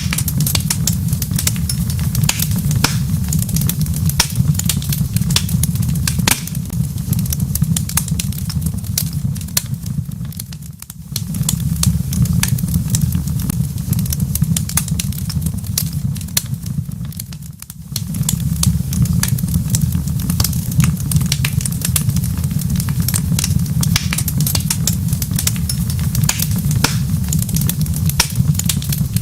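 Wood fire crackling in a fireplace: dense irregular pops and snaps over a steady low rumble. It fades down briefly twice, about eleven and eighteen seconds in.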